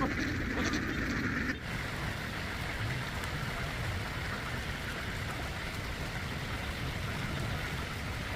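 A flock of ducks calling for about the first second and a half, cut off abruptly. A steady, even rushing noise with a low rumble follows.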